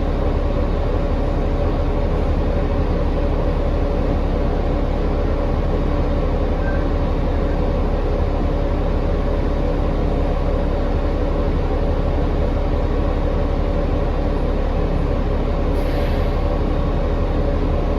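Cabin noise of a 2019 New Flyer XD40 diesel bus under way: a loud, steady drone with several steady tones over a low hum, the unusual sound the rider calls weird. Near the end there is a brief hiss.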